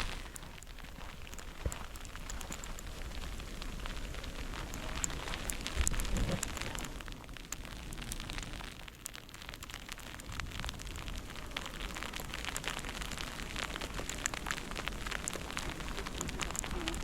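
Snowstorm street ambience: a steady crackling hiss with many small irregular ticks. There is a brief low rumble about six seconds in.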